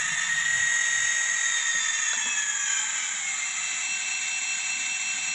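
Model F40PH diesel locomotive running in reverse under its new DCC sound decoder: the small onboard speaker plays a diesel engine sound, heard as a steady high whine over a faint low rumble.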